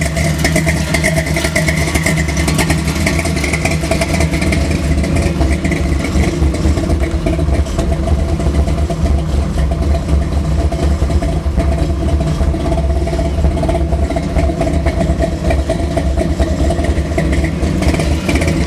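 1970 Chevelle's big-block V8, a 454 bored and stroked to 496 cubic inches, idling steadily and loudly through its exhaust pipes.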